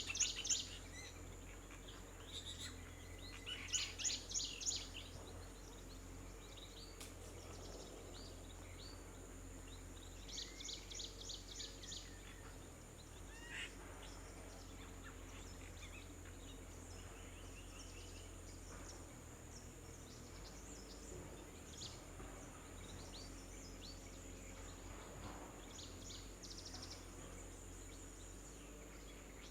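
Small birds chirping in quick bursts of rapidly repeated high notes, three runs in the first twelve seconds, then scattered single chirps. A steady high-pitched tone runs underneath.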